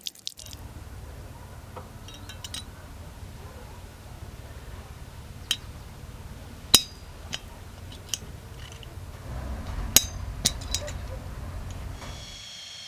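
Sharp metallic clinks and taps of small metal pieces being handled, about half a dozen, some ringing briefly, over a steady low hum.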